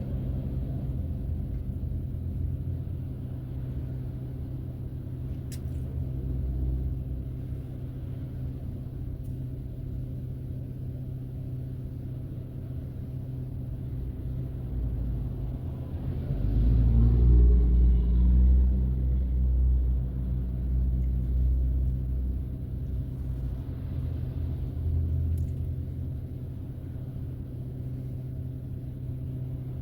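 A car driving: steady low engine and road rumble, swelling louder for a few seconds about sixteen seconds in.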